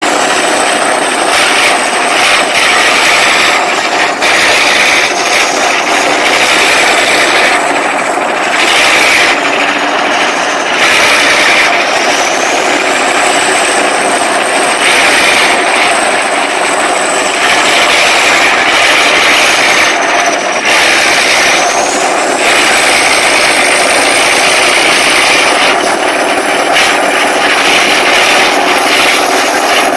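A loud motor running steadily, with a high whine that slowly rises and falls in pitch.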